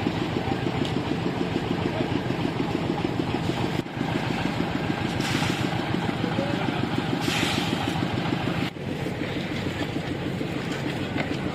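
An engine running steadily with a fast, even pulse, with brief hissing twice near the middle.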